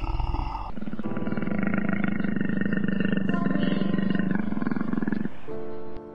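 A large animal's long, growly call with a rough, pulsing texture, held for about four seconds. A short stretch of steady musical tones follows near the end.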